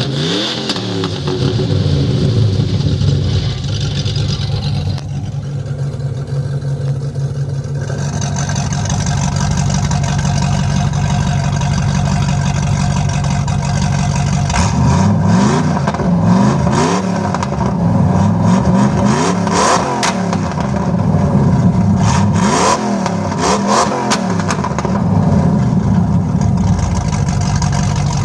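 Jeep Grand Cherokee 5.9 V8 running through headers and a dual exhaust: it settles to a steady idle, then is revved in several quick blips in the second half, each rising and falling in pitch.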